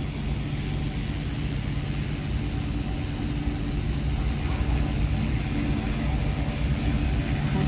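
A vehicle engine running steadily, a low rumble with a constant hum.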